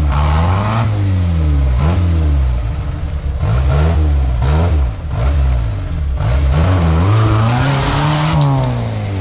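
Off-road vehicle's engine revving hard, its pitch rising and falling again and again as the throttle is worked, with one longer climb near the end.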